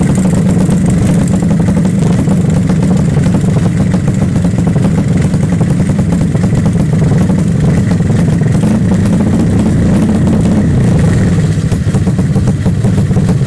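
Motorcycle engine running steadily at an even speed: a Yamaha Jupiter four-stroke single bored up to 150 cc.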